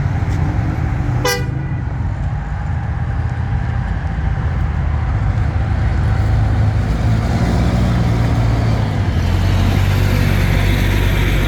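Engines of a large bus and departing motorcycles make a steady low rumble that grows somewhat louder after the middle. One short horn toot sounds about a second in.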